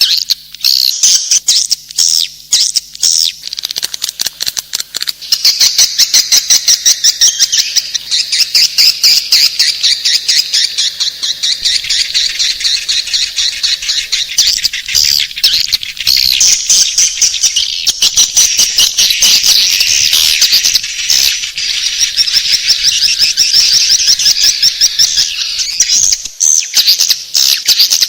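Swiftlets calling: a dense, rapid, high twittering and clicking that goes on almost without a break.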